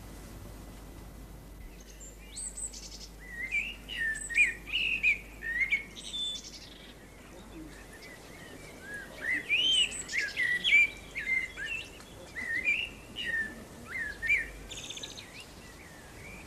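A songbird singing in two runs of quick chirps and warbled whistles, the first starting about two seconds in and the second after a short pause around the middle.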